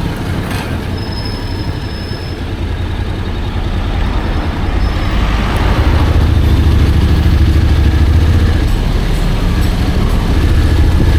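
Honda X-ADV 750 on the move: a low engine and wind rumble that grows louder about five seconds in.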